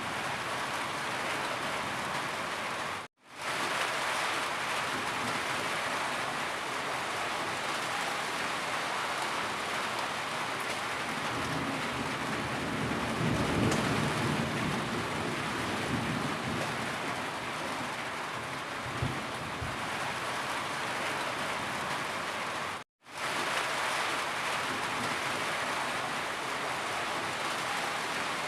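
Steady heavy rain falling, an even hiss of drops. Around the middle a low rumble swells and fades, and twice the sound cuts out to silence for a moment.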